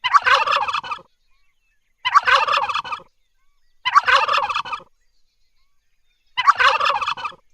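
Turkey gobbling: four gobbles, each about a second long, with a second or so of silence between them.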